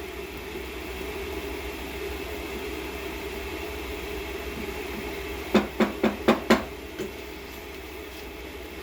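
Five quick sharp knocks in about a second, a little past halfway, over a steady low hiss: a utensil rapped against a pan of chicken and diced potato cooking on the stove.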